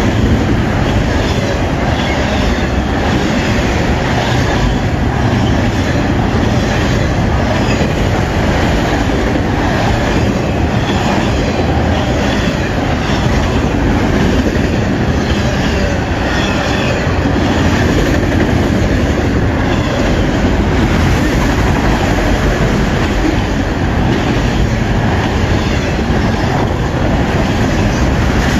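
A CN freight train of autorack cars passing close by at speed: a steady rumble of steel wheels on rail, with repeated clacks at a regular spacing as the wheels cross the rail joints.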